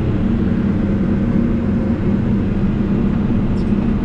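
Backhoe's diesel engine running steadily, heard from inside the cab.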